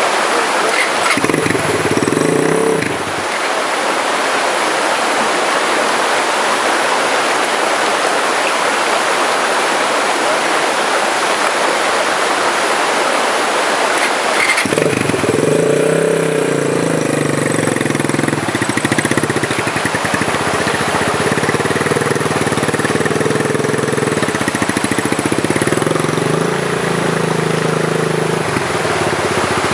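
Dirt bike engine catching briefly about a second in and stopping, then starting again about halfway and revving up and down as the bike climbs a steep wet rock slope. Steady rushing water runs underneath.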